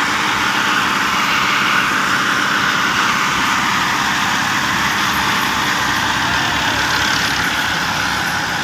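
Massey Ferguson 285 tractor's diesel engine running steadily.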